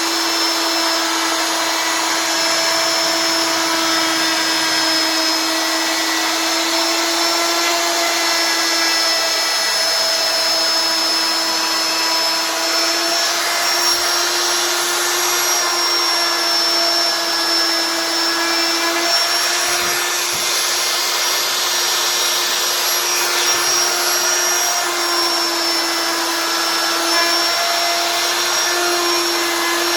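CNC wood router spindle running steadily with a high whine over a noisy rush, its pitch stepping slightly a few times.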